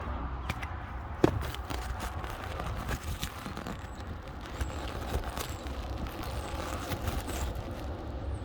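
Button quail scratching and pecking in loose bedding: scattered small clicks and scratchy rustling, with one sharper click about a second in, over a steady low hum.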